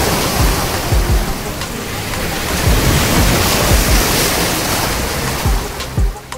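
Sea waves washing on the shore: a loud, steady rush of surf, with the beat of background music underneath.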